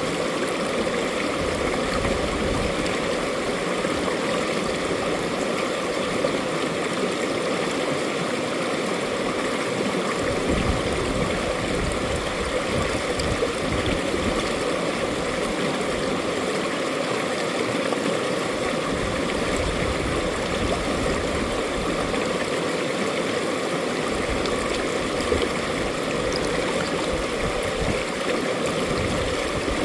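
Mountain valley stream flowing over rocks: a steady rush of water with gurgling and trickling.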